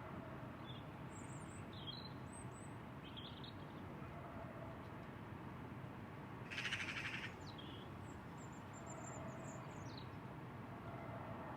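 Small birds chirping with short, high calls in two spells, over a steady, faint outdoor background hiss. About two-thirds of the way in there is a brief, louder rattle of rapid strokes.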